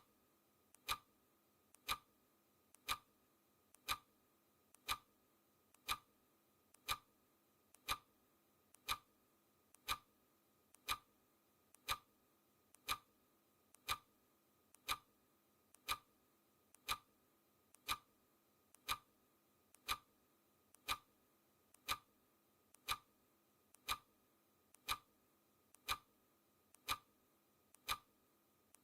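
Clock ticking sound effect on a countdown timer: a sharp tick about once a second, with a much fainter click between the loud ones.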